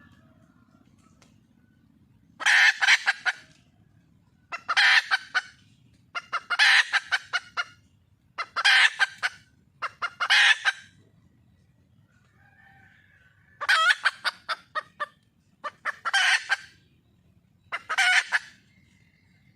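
Wild junglefowl hen calling for a mate: about eight loud calls, each a rapid run of cackling notes lasting about a second, repeated every two seconds or so with a short pause partway through.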